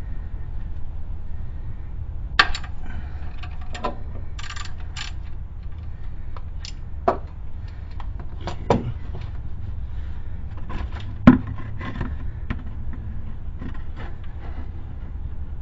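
Irregular metallic clinks, knocks and scrapes of hand tools working at an engine's oil drain plug, over a steady low rumble. The loudest knock comes about eleven seconds in.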